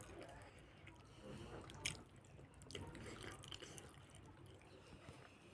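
Faint wet chewing and lip smacks from a person eating rice and meat with sauce, with a few scattered sharp wet clicks.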